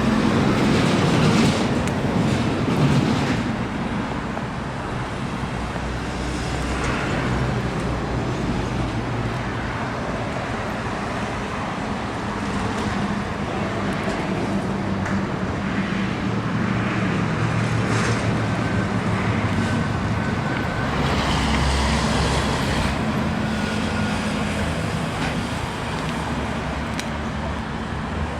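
Steady motor-vehicle engine and road-traffic noise, with low engine tones that shift in pitch now and then and a little louder in the first few seconds.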